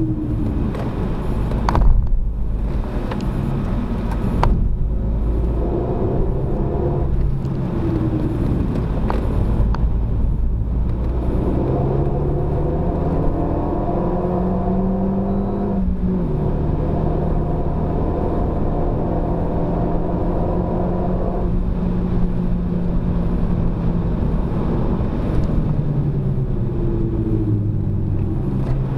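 Renault Mégane RS250's 2.0-litre turbocharged four-cylinder engine heard from inside the cabin while driven hard on track. Its note rises and falls with the revs, climbing through the middle and dropping near the end as it slows, over a steady road and tyre rumble. There is a sharp thump about two seconds in.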